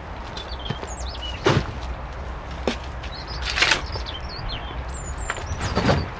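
European robin singing short, high, thin warbling phrases. Two louder rustling noises come about a second and a half in and again about two seconds later.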